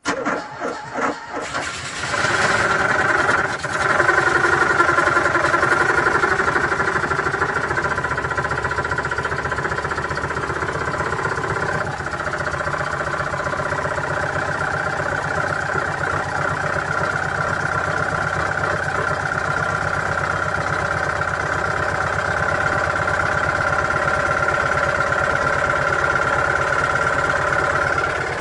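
Old car engine cranked over by the starter in cold weather. It catches after about two seconds, stumbles briefly, then settles into a steady run.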